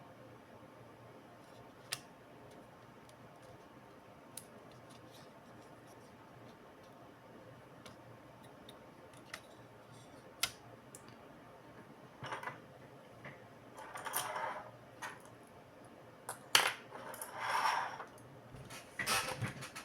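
Small hard parts clicking and clattering as a laptop is being worked on. There are a few isolated sharp clicks, then a busier run of clatter and scraping over the last several seconds.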